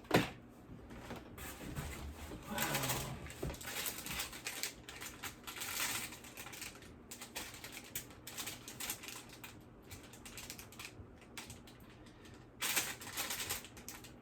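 Items and packaging being handled: a sharp click at the start, then a run of small clicks and taps with bursts of plastic or paper rustling, the longest near the end.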